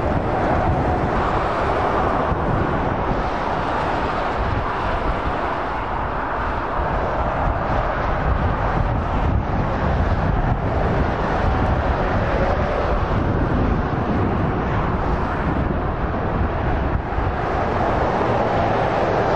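High-speed passenger trains passing at a distance on an electrified main line: a steady rushing rumble, with wind on the microphone.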